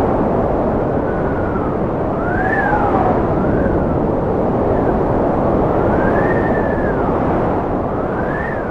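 Strong wind blowing steadily, with a whistling howl that rises and falls in pitch several times.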